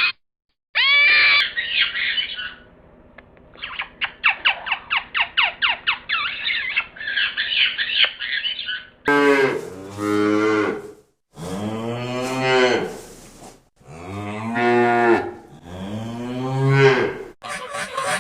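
Cattle mooing: four long, low moos one after another in the second half. Before them come higher animal calls, including a quick run of short falling calls at about four a second.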